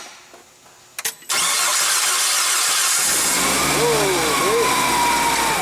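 GM 4.3 V6 forklift engine on propane being cranked over and catching, running steadily from about halfway through, with a whistling tone that wavers and falls in pitch. It starts because a substitute regulator and lock-off are feeding it, which bears out the diagnosis that the original regulator was overfeeding fuel and flooding the engine.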